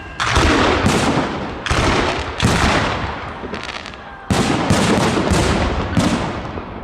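Festive fireworks salute going off overhead: a rapid series of about eight loud bangs, each trailing off in a long rumbling echo.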